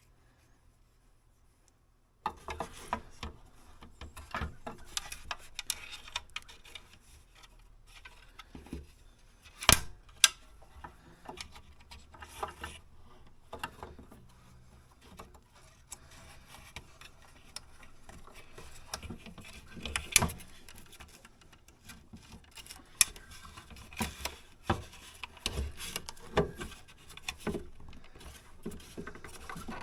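Handling noises from work on a tractor's rear light housing and bulb socket: small clicks, taps and rubbing that start about two seconds in, with two sharper knocks about ten seconds in.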